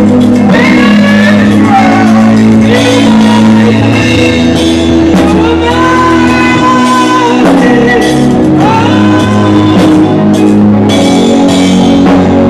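Live gospel music from a church choir and band: a steady bass line and drums under a sung melody that slides between held notes.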